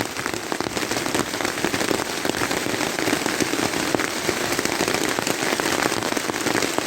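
Steady rain falling, a dense, even patter of many small drop hits.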